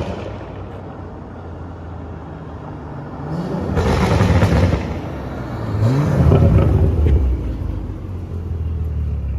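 Tuned BMW 540i's turbocharged inline-six running through a catless downpipe and Armytrix cat-back exhaust. It drones steadily, then revs up hard twice, the pitch rising each time, about three and a half seconds in and again about six seconds in.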